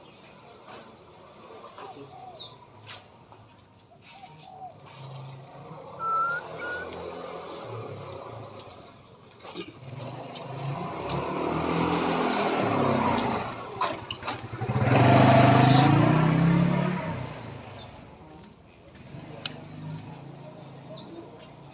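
A motor vehicle passes on the road, its engine growing louder, peaking, then fading away, over scattered short bird chirps and a brief two-note whistle.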